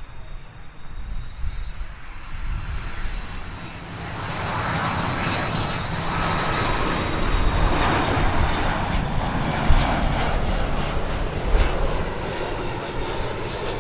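Airliner's jet engines: a thin high whine, then a loud rush of engine noise that swells about four seconds in and holds as the aircraft passes.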